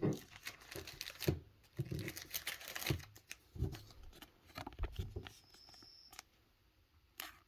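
Pokémon trading cards and a foil booster-pack wrapper being handled: irregular rustling and crinkling with light taps and clicks, dying away after about six seconds, then one short click near the end.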